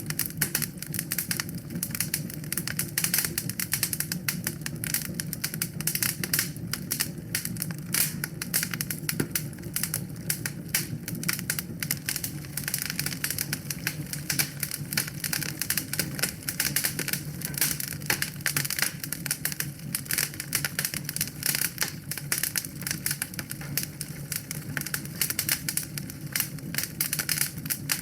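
Wood fire crackling in a fireplace: a dense, irregular run of snaps and pops over a low, steady rumble of the flames.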